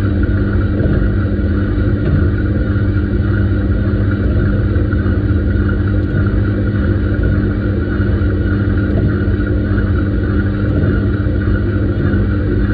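Washing machine running through its wash: a steady motor hum over a low drum rumble, unchanging throughout.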